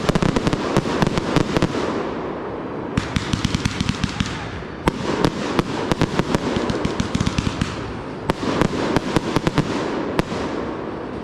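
Consumer fireworks going off in a show: dense volleys of rapid crackling reports that come in waves, building and easing off about every two to three seconds.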